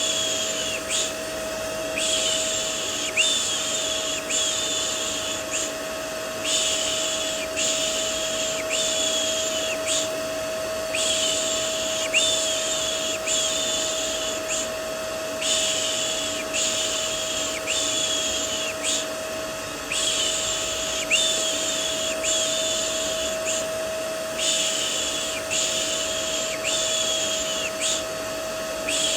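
Vacuum cleaner motor running with a steady hum, overlaid with a rhythmic 'shh' shushing, about one long hush every two seconds, used as soothing white noise for babies.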